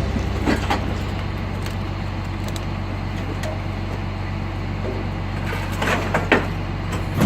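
Garbage truck engine running steadily with a low hum, with a few short clanks about half a second in and again near the end.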